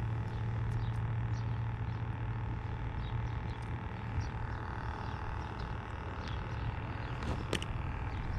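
Steady outdoor background: a low continuous hum under an even rushing noise, with faint scattered high chirps and a couple of sharp clicks near the end.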